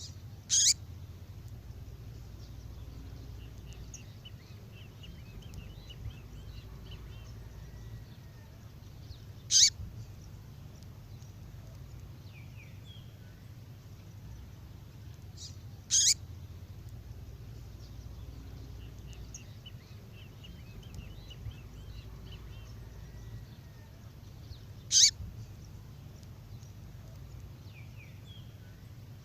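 Recorded call of a female songbird: four short, sharp, high calls several seconds apart, with faint twittering between them. The same sequence repeats as a loop, over a steady low hum.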